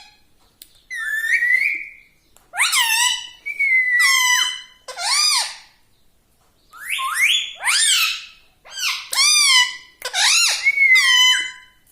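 Indian ringneck parrot giving a quick series of about nine high whistled calls, each under a second long and sliding up and down in pitch.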